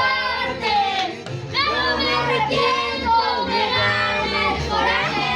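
A child's voice singing a song over music with a steady low accompaniment.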